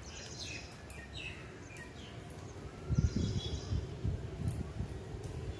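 Birds chirping in short calls, over wind buffeting the microphone, with a strong gust about three seconds in.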